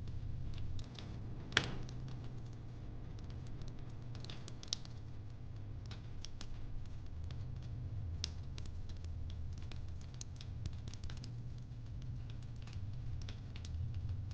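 Wood fire crackling: irregular sharp pops and snaps of varying strength, a louder snap about a second and a half in, over a steady low rumble.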